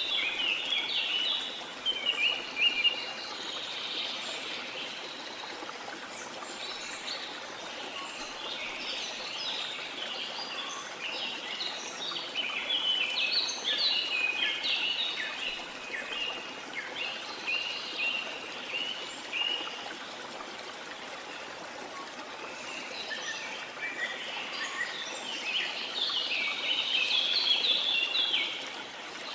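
Steady rush of a waterfall with many tropical rainforest birds chirping and calling over it, the calls coming in busy spells and thinning out for a few seconds past the middle.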